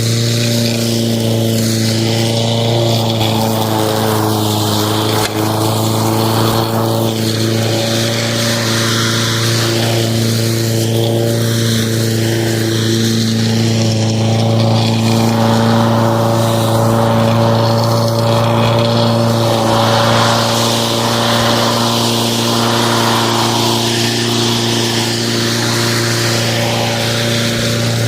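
Lawn mower running steadily at an even speed, its drone holding a near-constant pitch with only slight wavers.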